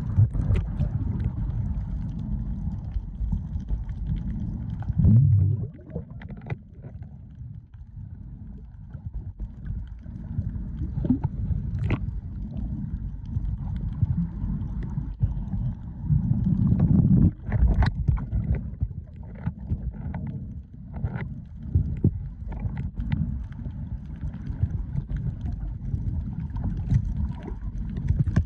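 Steady low rumble with scattered knocks and thumps, swelling louder a few seconds in and again about two-thirds of the way through.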